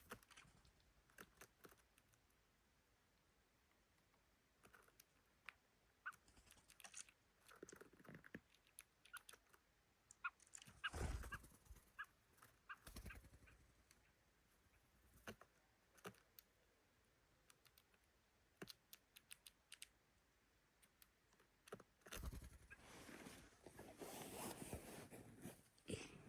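Dogs eating dog food: faint scattered crunching clicks, with louder spells of chewing about a third of the way in and near the end.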